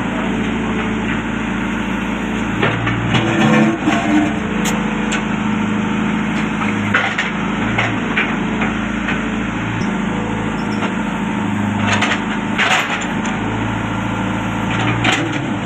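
Diesel engine of a Caterpillar 422F2 backhoe loader running steadily under work, with scattered sharp cracks and knocks.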